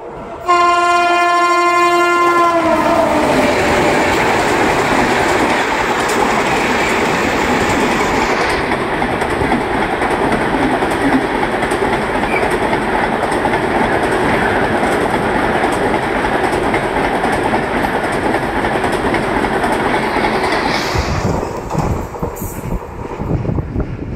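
Indian Railways Korba Superfast Express passing through at speed without stopping: the locomotive's horn sounds for about three seconds and drops in pitch as it goes by, then the coaches run past with steady wheel-and-rail noise for about eighteen seconds, which falls away near the end.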